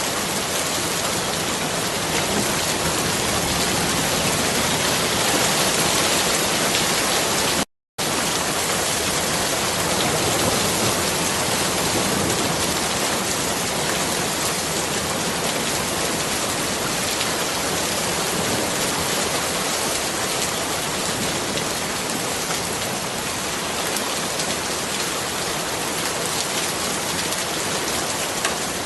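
Steady, heavy rain falling, an even dense hiss with no let-up. It cuts out completely for a split second about eight seconds in.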